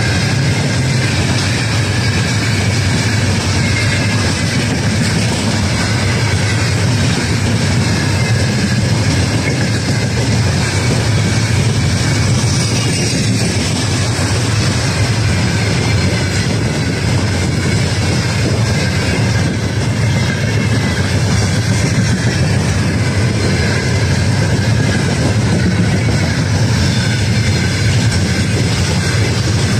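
Freight train of open gondola wagons passing at speed close by: a steady, loud rumble of wheels on rail that holds even throughout.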